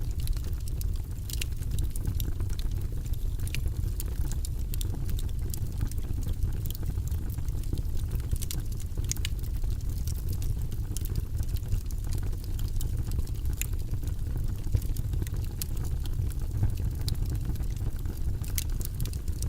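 Wood fire crackling in a fireplace: scattered sharp pops and snaps, irregular and several a second, over a steady low rumble.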